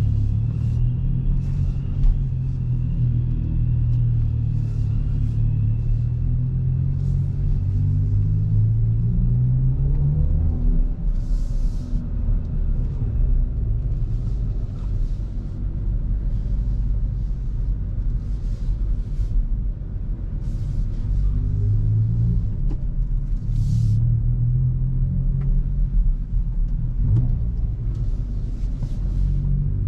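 Hyundai i20 N's 1.6-litre turbocharged four-cylinder engine and exhaust under way. The revs climb steadily for about ten seconds, then drop, and climb again near the end. Two brief hisses come partway through.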